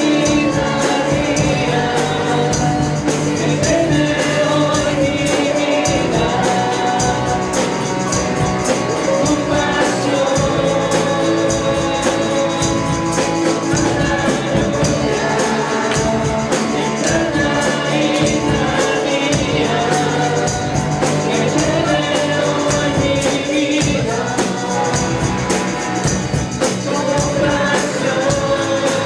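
Live worship music: a group of voices singing a Spanish praise song over a band, with a tambourine shaken in a steady beat.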